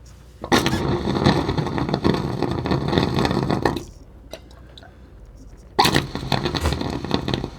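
Air and water sputtering out of an open water supply pipe in two bursts, the first about three seconds long and the second under two, as air is blown into the line from a valve upstairs to clear the last of the water.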